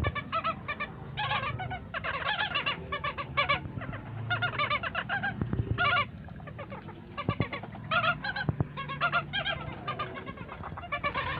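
Young white-headed stilts calling: bursts of short, yapping, honk-like notes repeated rapidly, with brief pauses between bursts. A steady low hum runs beneath them.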